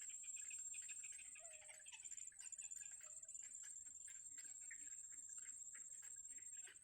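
Faint insect chorus: a steady high-pitched drone with rapid, irregular ticking over it.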